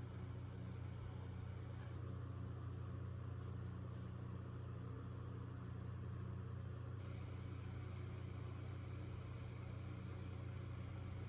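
Eureka The Boss Superlite (402) vacuum cleaner running steadily with a constant motor hum. Its higher hiss shifts slightly about seven seconds in.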